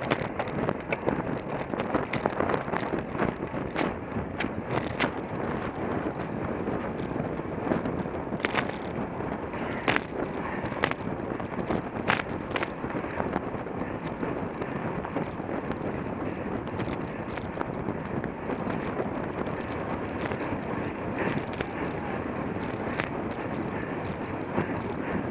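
A racing bicycle being ridden, heard through a camera mounted on the rider or bike: a steady rushing of wind and road noise, with sharp clicks and rattles scattered through it, more often in the first half.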